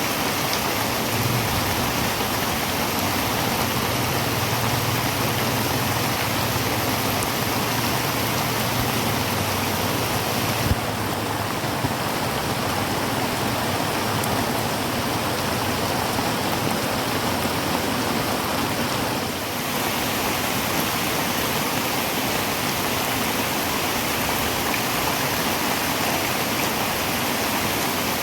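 Heavy rain drumming steadily on a tin roof, a dense, even hiss. A faint low hum sits under it for the first ten seconds or so, and there is a single sharp knock about ten seconds in.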